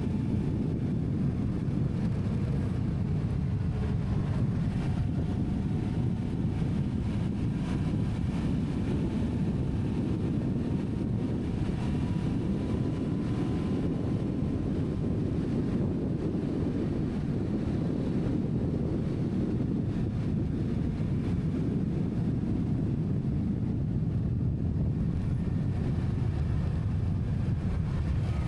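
Steady low rumble of a vehicle in motion, with wind noise on the microphone and a faint engine tone that rises slightly midway.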